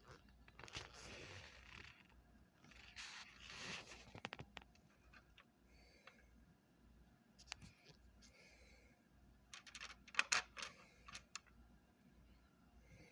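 Light scraping and rustling, twice in the first four seconds, followed by scattered sharp clicks and taps, loudest in a quick cluster about ten seconds in.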